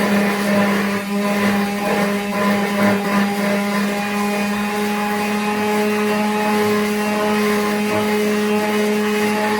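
Electric power sander running at a steady speed with an even motor hum, sandpaper rasping against a wooden board edge to smooth a jagged jigsaw cut.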